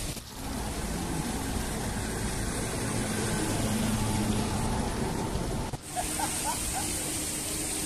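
Outdoor ambience: a steady rushing hiss with a faint murmur of distant voices. After a cut about six seconds in, a few short chirps sound over the hiss.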